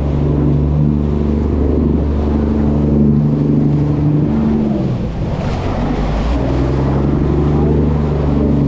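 Strong wind howling across the ship, its whistle-like tones holding steady and then jumping to new pitches, over a low rumble of wind buffeting the microphone.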